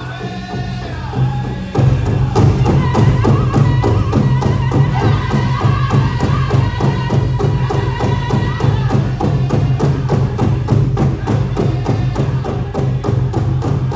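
Powwow drum group singing with a large drum struck by several drummers in a fast, even beat. The drum comes in loudly about two seconds in and keeps going under the singers.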